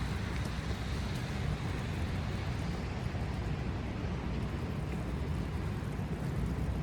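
Steady low rumble of downtown street ambience: a constant hum of city traffic with no single event standing out.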